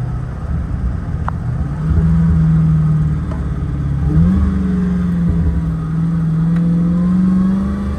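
A car engine under way, its pitch stepping up twice as the revs climb, then holding steady at higher revs.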